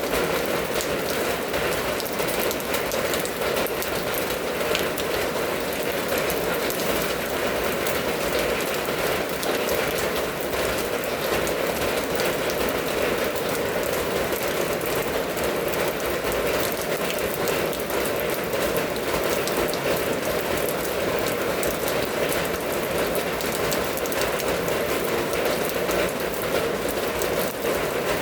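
Steady rain falling: an even hiss of many fine drop ticks that holds without change.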